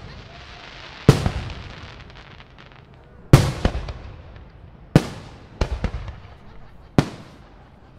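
Aerial fireworks shells bursting: a string of sharp booms every second or two, some in quick pairs, each trailing off in a rumbling echo.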